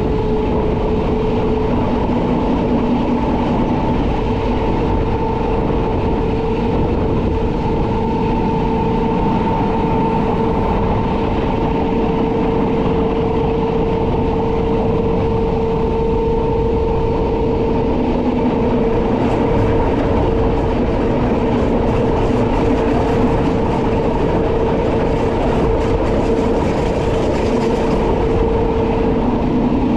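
Metre-gauge Rhaetian Railway train running at a steady speed: a continuous rumble of wheels on rail with a steady whine held at one pitch, and faint light ticking in the second half.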